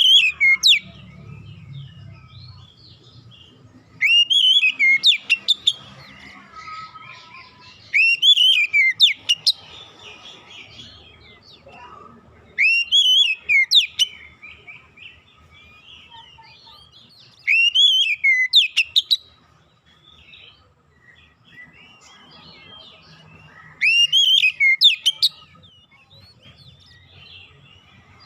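Oriental magpie-robin (kacer) singing loud whistled phrases, each about a second and a half long, with swooping notes and high chips, repeated about every four to six seconds. Quieter twittering fills the gaps between phrases. It is the kind of lure song played to set a kacer singing.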